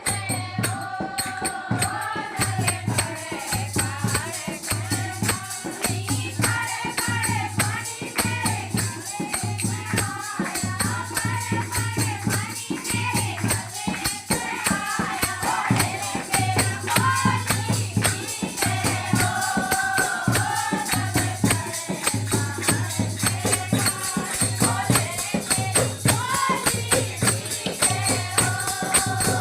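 Hindi devotional song to Shiva (Bhole) with a sung melody over jingling, tambourine-like percussion and a regular low bass beat.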